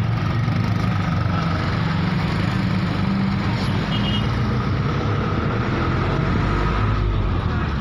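Road vehicle engines running steadily, a continuous low rumble with a faint steady high tone over it.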